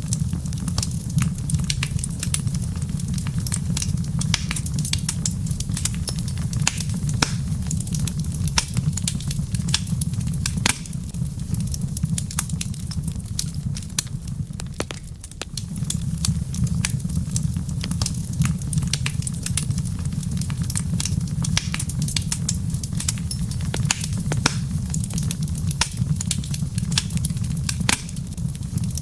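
Wood fire crackling in a fireplace, with many sharp pops and snaps of varying strength over a steady low rumble; the rumble dips briefly about halfway through.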